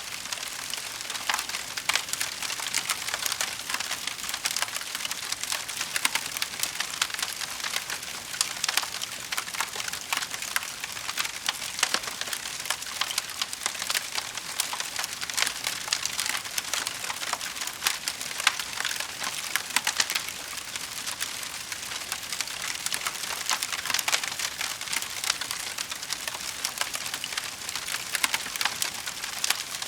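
Wood fire crackling: a steady stream of small pops and snaps, with an occasional louder crack.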